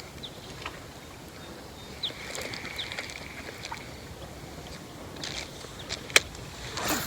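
Faint handling noise in a kayak while fishing: small clicks and knocks of gear over a low steady hiss of wind and water, with one sharper click about six seconds in.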